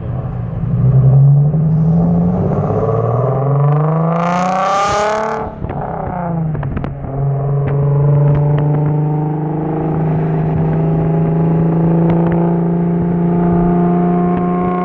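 The V6 of an Infiniti G35 sedan (the VQ35HR engine) running through a muffler-deleted exhaust. It revs up with a rising pitch for about two seconds, drops back with a few crackles, then holds a steady, slowly climbing drone.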